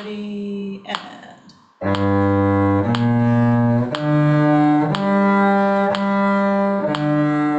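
Low bowed string instrument in cello range playing a slow one-string arpeggio, one sustained note about every second, starting about two seconds in.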